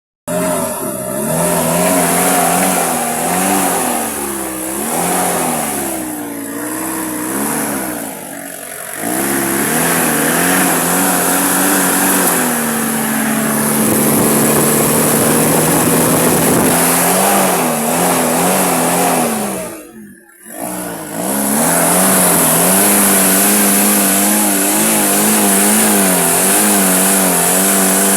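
Toyota 5L diesel engine being revved up and down again and again, its pitch rising and falling, with a steady high hiss over it. The sound drops out briefly about two-thirds of the way through, then the revving resumes.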